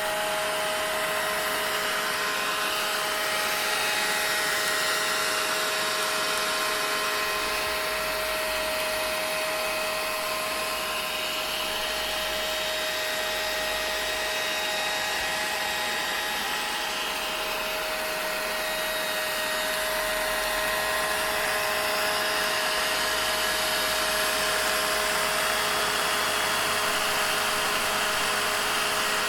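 Vacuum cleaner running continuously: a steady rushing noise with a constant whine from its motor, used as white noise for sleep.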